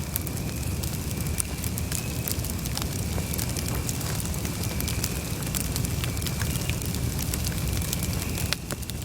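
Wood campfire burning: a steady low rumble of the flames with frequent sharp crackles and pops from the burning wood.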